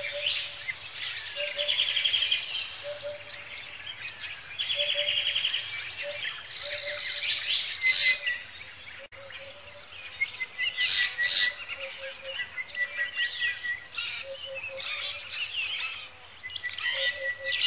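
Several wild birds singing and calling at once, overlapping songs and chirps, with one buzzy trill repeated every few seconds and a low note repeating steadily beneath. Two louder, sharp calls stand out about eight and eleven seconds in.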